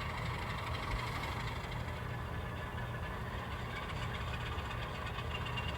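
N scale model locomotive running along the track, its small electric motor giving a steady low hum.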